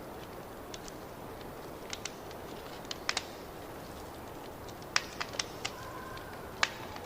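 Wood fire crackling: a steady soft hiss with irregular sharp pops, several close together about five seconds in and a loud single pop near the end.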